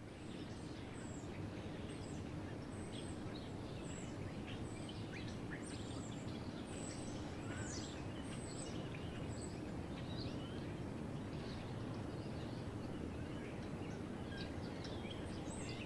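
Small birds chirping in short, scattered calls over a steady background hum of outdoor noise.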